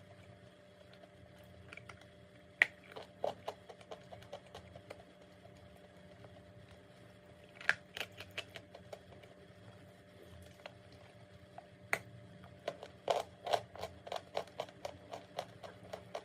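Chalk being bitten and chewed with crisp crunches: a few single sharp snaps spaced seconds apart, then a quick run of crunches near the end.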